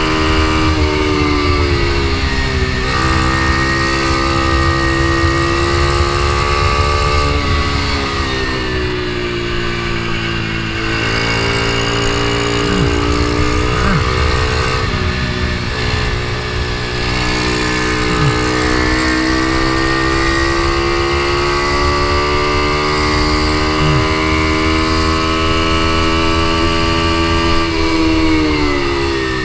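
Ohvale minimoto's single-cylinder four-stroke engine at high revs heard from on board, its pitch sinking as the rider eases off and climbing again on the throttle several times.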